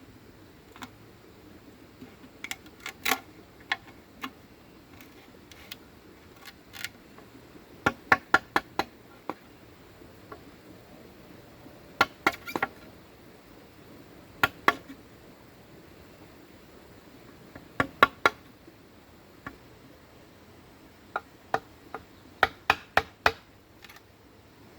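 Sharp knocks of a hand tool striking bamboo, in short runs of several quick blows with pauses between.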